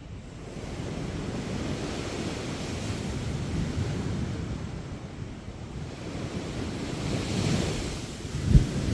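Sea waves washing onto a sandy beach, the surf swelling twice, with wind on the microphone and a brief low thump near the end.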